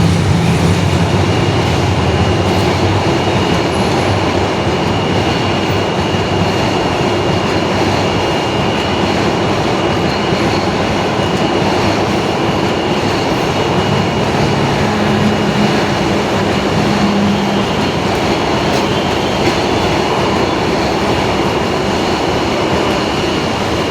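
Bangladesh Railway express passenger train passing through a station without stopping: a diesel locomotive's low hum at first, then the coaches rolling past with steady wheel-on-rail noise and a thin, steady high whine.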